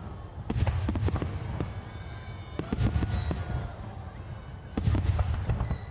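Aerial fireworks shells bursting close by: two big booms, about half a second in and near the end, with crackling and smaller pops between them.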